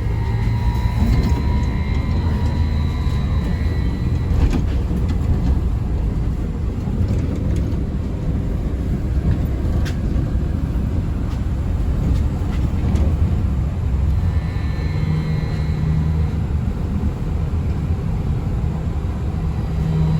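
Steady low rumble of a city transit vehicle's cabin while it drives. A faint whine sounds during the first few seconds and again about three-quarters through, with a couple of brief knocks in between.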